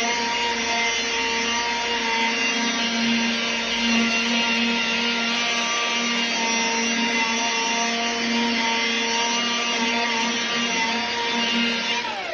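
Cheap 18-volt cordless polisher, converted to run on a Makita battery, running steadily while buffing polish into painted clear coat. Near the end it is switched off and its pitch falls as it spins down.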